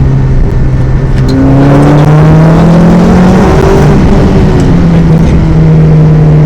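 VW Golf GTI Mk1 rally car's engine at full load, heard from inside the cabin. Its note climbs in pitch about a second in, drops back near the middle, then holds steady.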